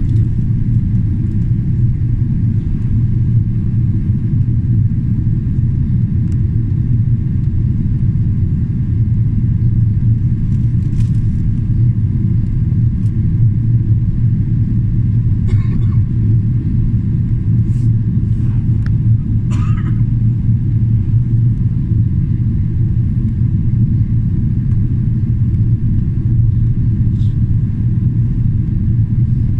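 Steady low rumble inside the cabin of a Boeing 777-300ER in flight: its GE90 engines and the airflow heard from a seat at the rear of the cabin. A few faint brief sounds come through in the middle.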